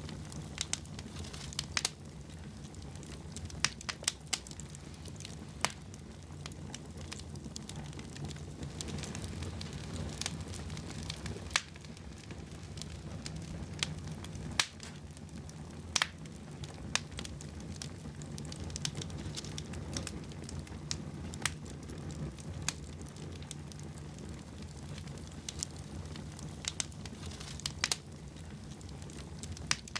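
Wood fire in a fireplace burning, with a steady low rumble of the flames and frequent irregular sharp crackles and pops.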